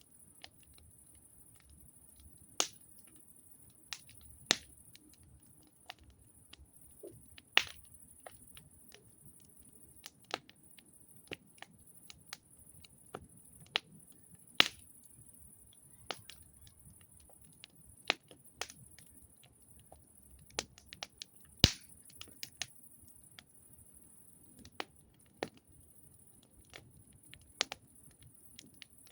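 Campfire crackling: irregular sharp pops and snaps of burning wood, a handful of louder cracks standing out among quieter ticks, over a faint steady high hiss.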